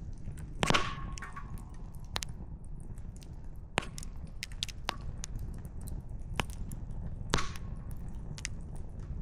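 Wood campfire crackling: irregular sharp pops and snaps of burning firewood, two louder pops about a second in and about seven seconds in, over a steady low rush.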